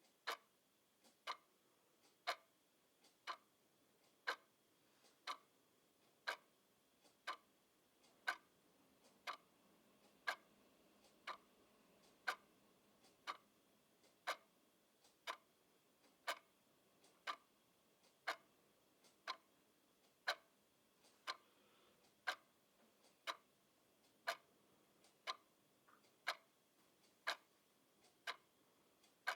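Clock ticking steadily, a louder tick about once a second with a softer tock in between.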